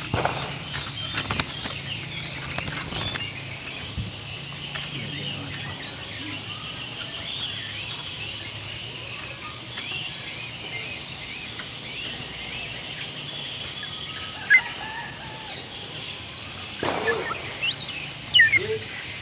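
Oriental magpie robin singing: busy chirping and whistled notes throughout, with louder sweeping whistles about two-thirds of the way through and again near the end. A few sharp clicks sound in the first few seconds, over a faint low hum.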